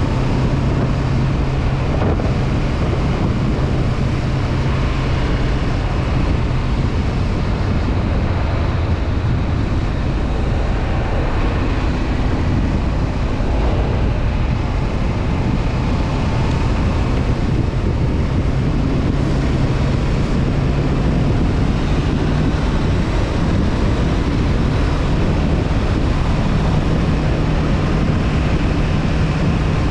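Honda CB500F's parallel-twin engine running at a steady cruise, under heavy wind noise on the camera microphone. The engine note edges up slightly in pitch in the last few seconds.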